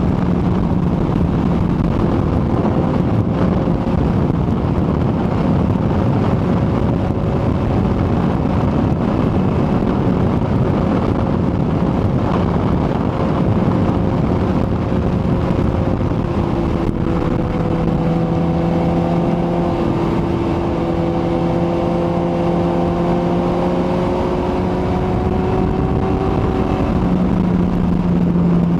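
Kawasaki ZX-14R's inline-four engine running at a steady cruising speed under heavy wind and road noise. The engine note holds nearly constant pitch and stands out more clearly in the second half.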